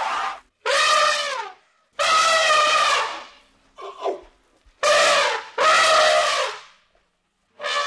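Elephant trumpeting: a series of about six loud calls, each lasting up to about a second and falling in pitch at its end, with short silent gaps between them.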